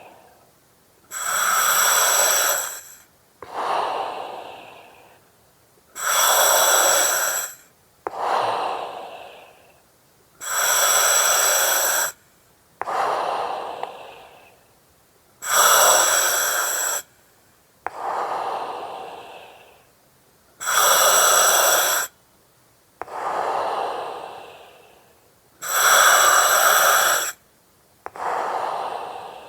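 Slow, regular breathing through an oxygen mask, about six breaths. Each cycle is a loud, steady hiss of about two seconds with faint whistling tones in it, followed by a softer breath that fades out.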